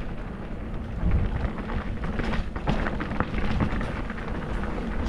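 Wind rumbling on the microphone, with frequent clicks and knocks of tyres and the bike rattling over a rough, rocky trail during a ride.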